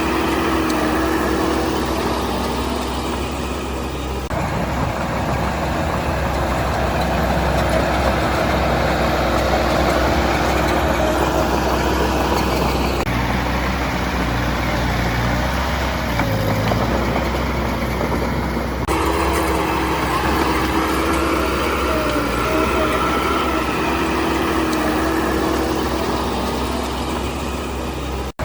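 Heavy diesel construction machinery running steadily, its sound changing abruptly three times.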